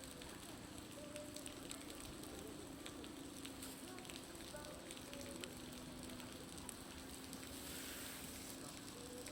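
Dense, irregular crackling patter of meltwater dripping and splashing off a building's roof, sounding much like a bonfire crackling, over a faint steady low hum.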